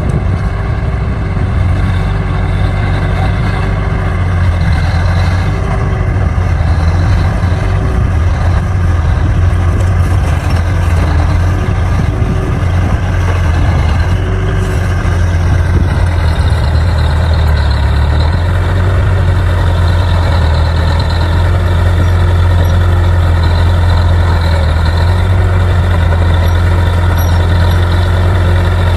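Bulldozer's diesel engine running steadily and loudly with a deep, even drone.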